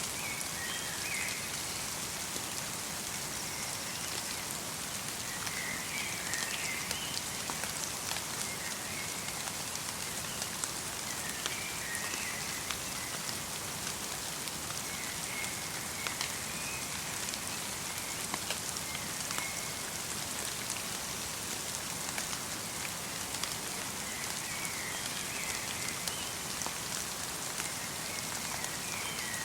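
Light rain falling: a steady hiss with many small drops ticking. A small bird gives short, high chirps every few seconds.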